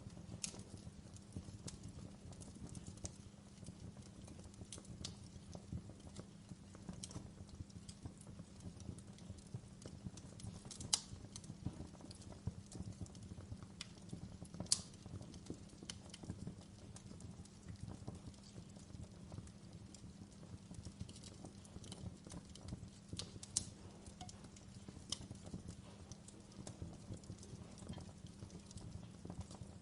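Logs burning in a fireplace, crackling steadily: a dense bed of small crackles with scattered sharper pops, two of them louder near the middle.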